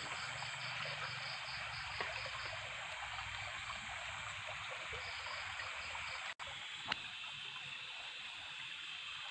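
Small stream running and trickling steadily, with night insects chirping in a fast pulsing rhythm over it. About two thirds of the way in, the audio drops out for an instant, and a steady high trill takes over from the pulsing.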